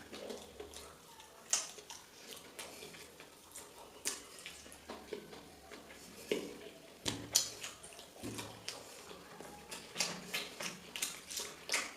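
A person eating: wet chewing and lip smacks, heard as a string of short, irregular clicks.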